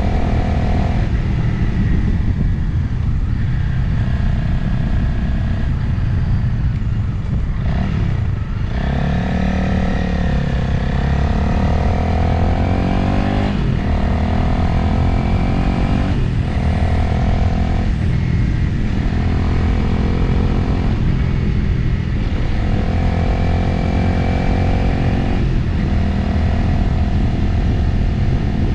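Motorcycle engine running on the move, with wind noise on the microphone. The engine note holds steady for stretches and changes pitch several times as the throttle and gears change, dropping about eight seconds in and then climbing.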